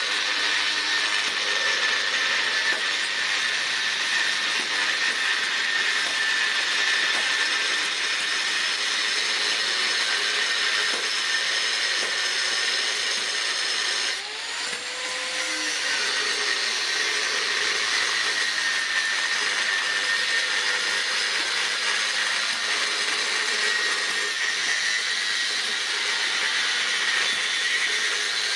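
A power tool running steadily, a continuous whirring hiss with a high whine in it; it eases off briefly about halfway through and then picks up again.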